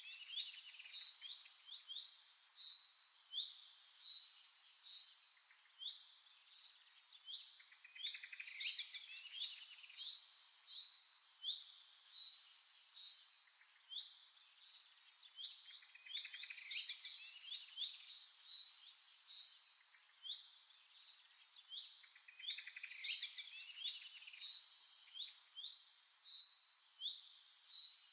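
Birds singing: a dense chorus of high chirps and quick trills, the same run of phrases recurring about every eight seconds.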